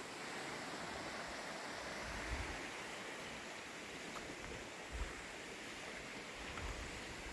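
Steady rushing of flowing river water, with a few soft low bumps.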